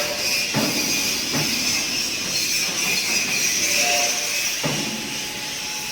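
Factory workshop noise: a steady high hiss with a few sharp metal clanks.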